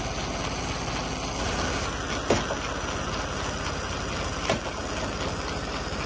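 Heavy machine's engine running steadily, with two sharp knocks about two and four and a half seconds in.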